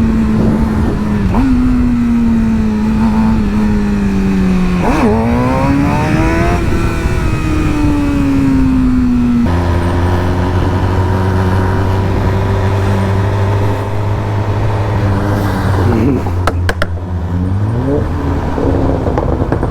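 Sport motorcycle engine at low speed: the note sinks as it rolls off, rises briefly about five seconds in, then settles to a steady low-speed run. A few sharp clicks come near the end, followed by a short rising rev.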